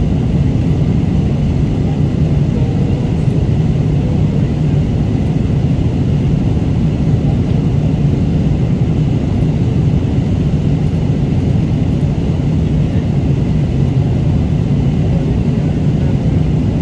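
Steady airliner cabin noise in flight: a constant low rumble of engines and airflow that does not change.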